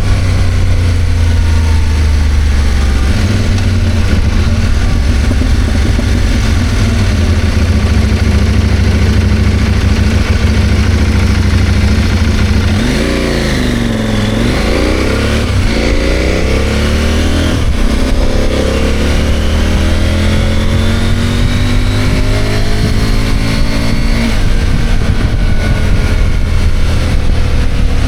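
CFMOTO 800MT's parallel-twin engine running under way, with a steady drone for the first part. About halfway through the revs drop, then climb again in several rising sweeps as it accelerates through the gears.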